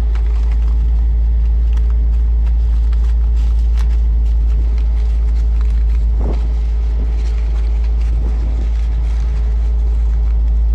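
A grain truck's engine idling steadily with a deep, even rumble. A few light knocks sound over it, the clearest about halfway through.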